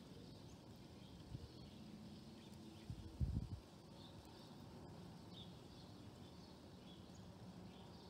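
Faint, scattered chirps of small birds over a steady outdoor background, with a short low rumble about three seconds in.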